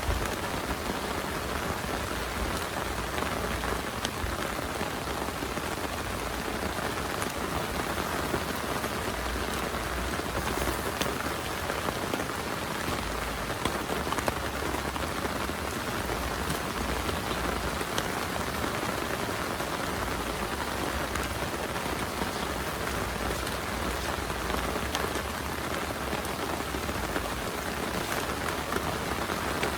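Heavy rain falling steadily, with scattered sharper drop hits through it.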